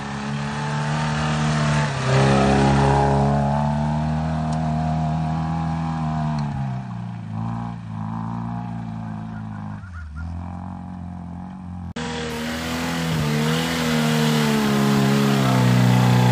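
Suzuki Samurai engine running and revving under load, its pitch slowly rising and falling. About twelve seconds in, the sound cuts abruptly to a louder engine as a different clip begins.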